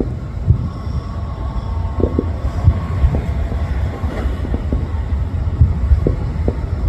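Distant fireworks going off: a rapid, irregular series of dull booms over a continuous low rumble.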